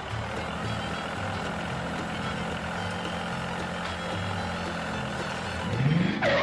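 A steady mechanical hum over background music with a stepping bass line, ending in a rising swoop and a loud burst near the end.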